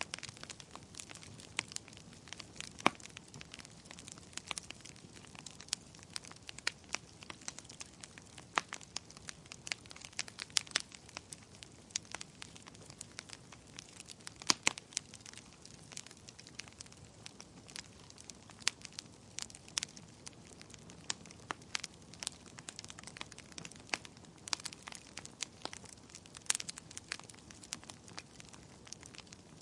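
Campfire burning: sharp, irregular crackles and pops of burning wood over a soft steady hiss of the flames.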